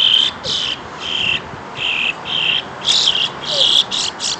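Insects chirring in a steady run of short, high, buzzy pulses, about two or three a second.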